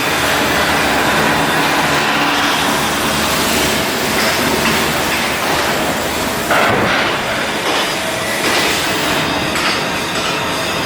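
Loud, steady industrial machinery noise of shipyard work, with a sudden jump in loudness about six and a half seconds in.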